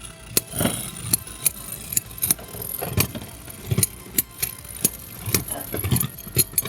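Two Beyblade X spinning tops whirring in a plastic stadium, striking each other and the stadium wall in sharp, irregular clicks and clacks over a steady high whine of their spin. One of the tops is a custom 3D-printed one on a ball-bearing tip.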